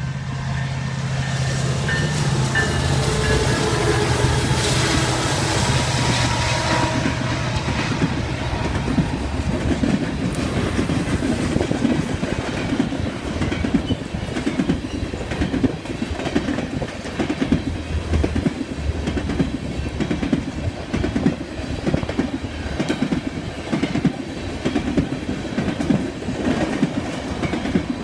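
Empty BNSF coal train passing: the EMD SD70ACe and GE ES44AC diesel locomotives run by in the first several seconds, their engine sound growing loudest around the middle of that stretch. After that the empty coal hopper cars roll past with a steady rhythmic clatter of wheels on the rails.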